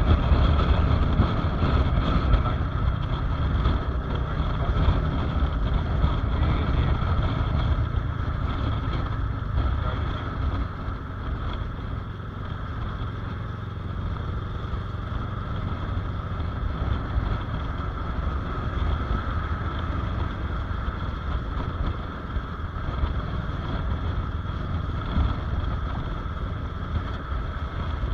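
Motorcycle engine running steadily on the road, with wind rumble on the microphone; a little louder for the first several seconds.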